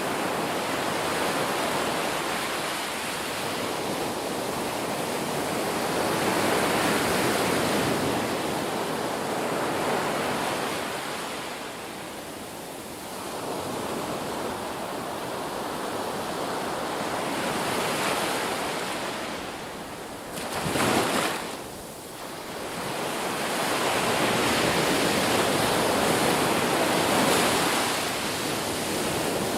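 Ocean surf: waves breaking and washing in, swelling and fading every few seconds, with one short, sharp surge a little after two-thirds of the way through.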